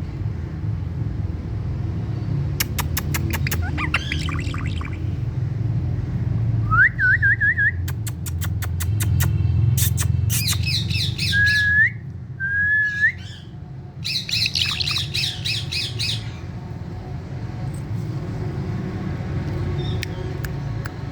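Indian ringneck parakeet squawking and chattering in several harsh bouts, with a few short rising whistles about midway, over a steady low rumble.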